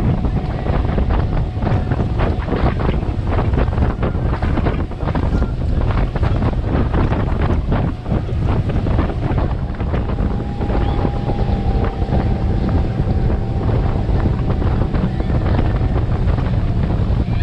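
Motorboat running at speed on the water, its engine a steady low drone under heavy wind buffeting the microphone in irregular gusts.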